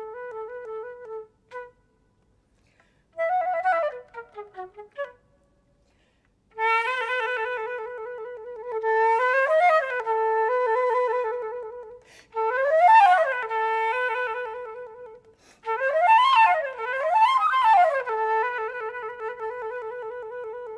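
Unaccompanied flute playing: a rapid trill on one note, a quick falling run, then after a short pause more trills broken by fast runs that sweep up and back down several times.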